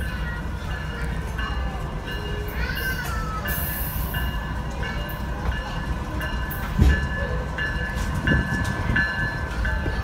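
Diesel excursion train's passenger coach heard from inside while rolling along the track: a steady low rumble, with one sharp thump about seven seconds in.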